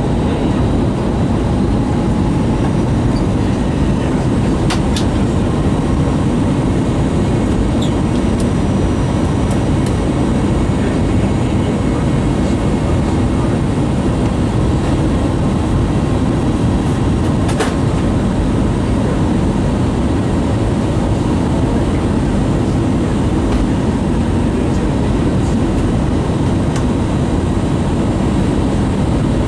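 Steady, loud cabin rumble of an Airbus A320 heard from inside the cabin: engine and airflow noise, with a couple of brief clicks.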